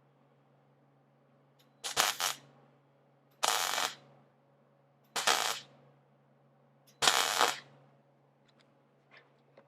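Wire-feed (MIG) welder laying four short tack welds on sheet steel, each a crackling burst of about half a second, spaced a second and a half to two seconds apart, over a steady low hum.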